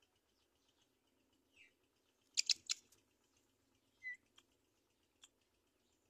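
Birds calling: three short, sharp, high calls in quick succession about halfway through, then a short falling chirp, over faint high twittering.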